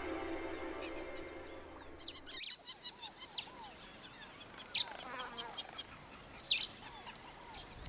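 Music stops about two and a half seconds in and gives way to outdoor nature sound. Several birds give short, sharp calls over a steady high insect drone.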